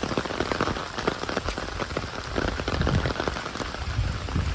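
Rain falling, with many close drops striking hard surfaces near the microphone, and a low rumble in the second half.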